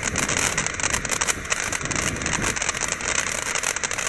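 Firework fountain spraying sparks: a steady rushing hiss with dense fast crackling.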